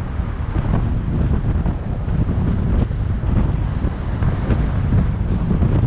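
Wind buffeting the microphone of a riding electric bike, loud and uneven, heaviest in the deep end.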